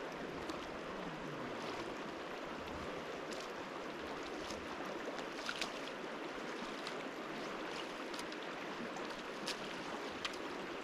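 Mountain river water rushing steadily, with a few faint sharp splashes or ticks over it.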